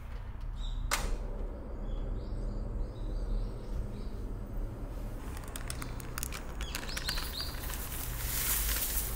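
A few short, high bird chirps over a steady low hum, with a sharp click about a second in and a patter of small clicks and rustling near the end.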